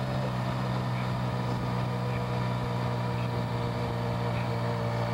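Motorcycle engine running steadily at a low, even speed, a constant hum under a steady hiss of road noise.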